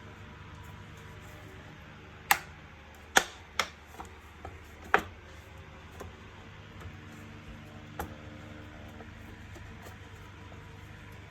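Hard plastic vacuum cleaner parts clicking and knocking as they are handled and fitted together: a quick run of sharp clicks a couple of seconds in, then two more spaced out later, over a steady low hum.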